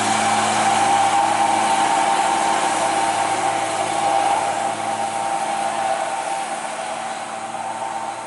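Old truck's engine running steadily with a whine over a low drone, fading gradually through the second half.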